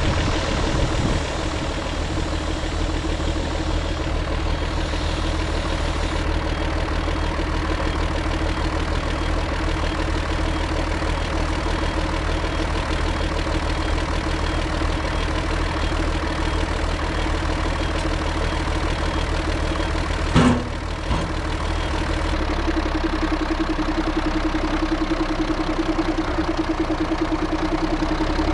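Zetor 16145 tractor's straight-piped turbo diesel engine running steadily. A single sharp knock comes about twenty seconds in, and the engine note shifts a little soon after.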